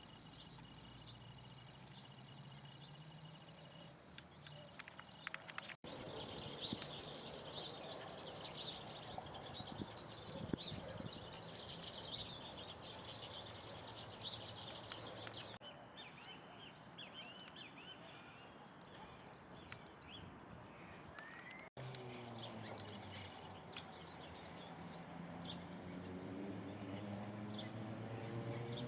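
Birds chirping and calling, with many short high notes. The sound breaks off abruptly twice, at about 6 s and again at about 22 s. From about 22 s on, a low droning hum that rises in pitch joins the birdsong.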